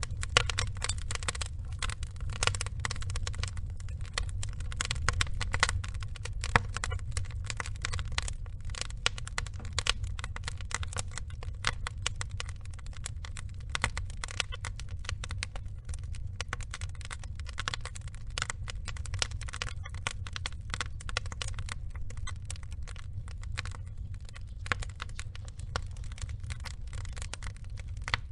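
Wood fire burning: logs crackling and popping in dense, irregular clicks over a steady low rumble of flame.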